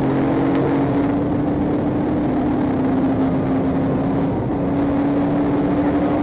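Patrol car under way in a pursuit: steady engine drone and road noise heard from inside the cruiser.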